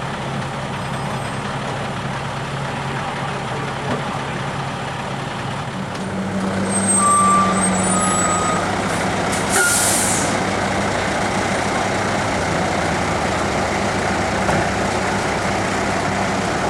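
Fire truck engine idling steadily, with a short air-brake hiss about ten seconds in and two brief high beeps a little before it.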